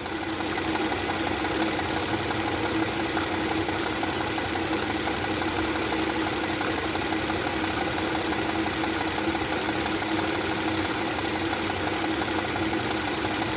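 Audi 3.0 TFSI supercharged V6 idling steadily with its intake hose off while carbon cleaner is poured into the intake in small amounts, the engine being fed slowly so it does not flood or stall.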